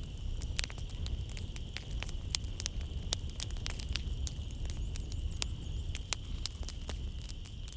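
Wood fire crackling in a fireplace: irregular sharp pops and snaps over a low steady rumble of the flames. Behind it runs a steady high-pitched chorus of night insects.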